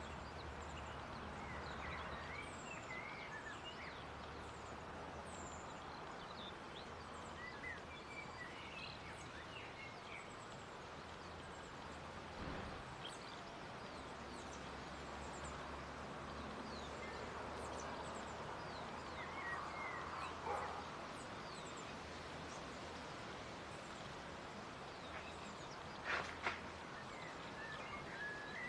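Small birds giving scattered short, high chirps over a steady outdoor background hiss, with a couple of brief louder sounds near the end.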